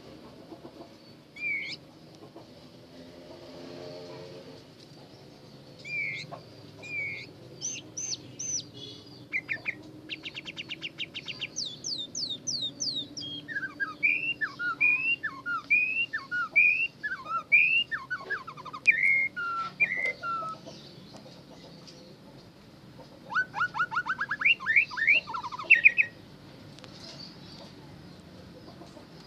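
A songbird singing a varied song of short whistled notes, fast trills and quick down-sweeping calls, delivered in bursts with short pauses between phrases; the busiest stretch runs through the middle, and a rapid run of notes comes near the end.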